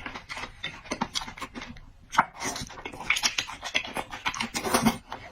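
A person eating close to the microphone, chewing and smacking, in a quick irregular run of wet clicks and smacks.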